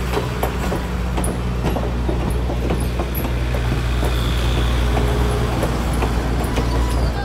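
Passenger cars of a diesel-hauled excursion train rolling past, steel wheels clicking and clattering over the rails. A steady low engine drone from the diesel locomotive runs underneath, and a faint wheel squeal comes about four seconds in.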